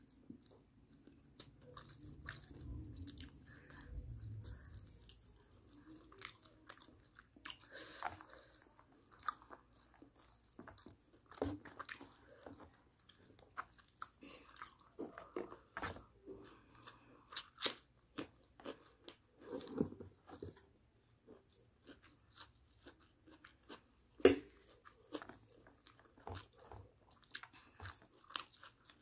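Close-up chewing and biting of barbecue chicken and rice eaten by hand, full of irregular sharp clicks and crackles, with one louder click about three-quarters of the way through.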